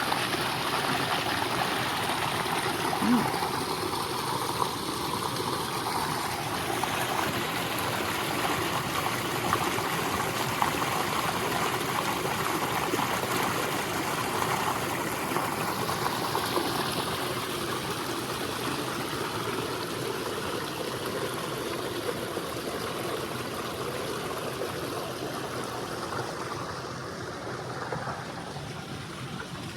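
Small waterfall running into a pond: a steady splashing rush of falling water, easing off a little near the end.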